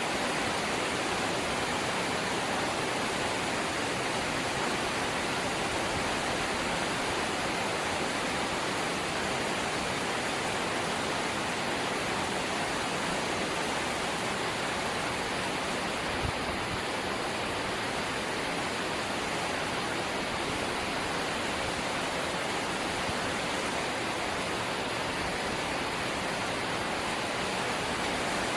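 Light rain falling steadily, an even hiss of rainfall with no breaks, and a single faint tap about halfway through.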